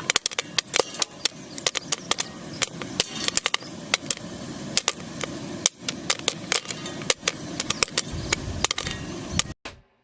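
Popcorn kernels popping in a covered pot: irregular sharp pops, several a second, over a steady sizzling hiss, with a low rumble coming in near the end.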